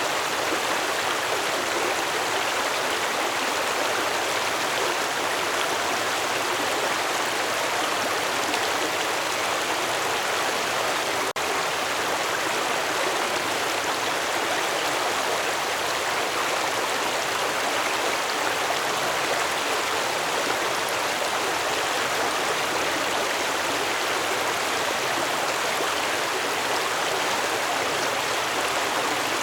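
Stream water flowing in a steady, even rush with no let-up, with a momentary dropout about eleven seconds in.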